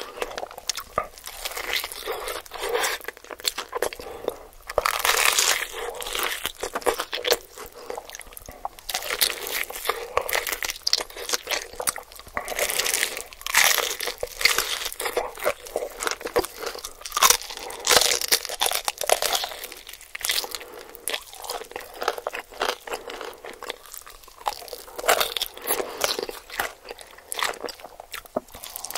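Close-miked eating of a sauce-coated fried chicken drumstick: repeated crunching bites into the crispy coating and wet chewing, with irregular crackles throughout and louder bites now and then.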